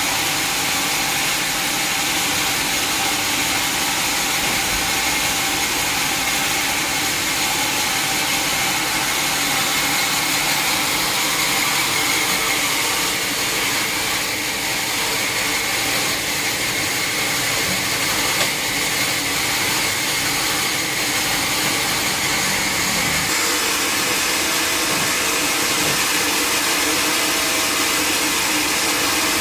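Sawmill saw running steadily through a log, a continuous high-pitched hiss and whine of blade in wood.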